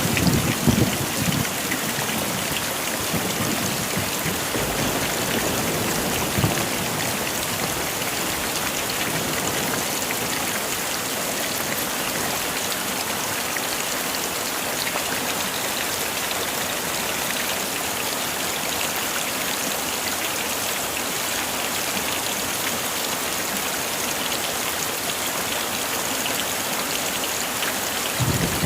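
Heavy rain falling steadily, a dense even hiss of drops, with a few brief low rumbling surges in the first second and again about five to six seconds in.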